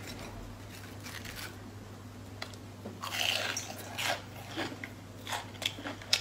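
Crunchy biting and chewing of a breaded fried chicken cutlet: scattered crisp crackles, busiest about three seconds in.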